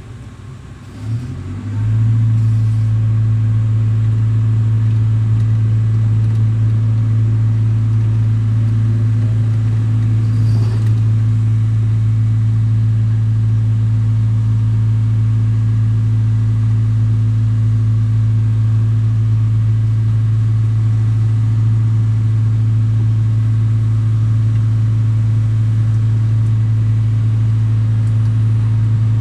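Diesel engine of an excavator speeding up about a second and a half in, then running at a steady high speed with a loud, even drone.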